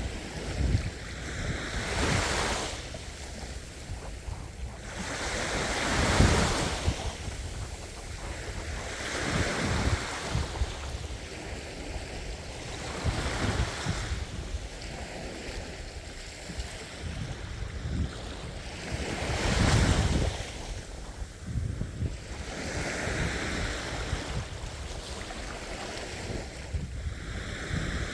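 Ocean waves surging and washing onto the shore, the surf swelling and fading every few seconds, with wind rumbling on the microphone.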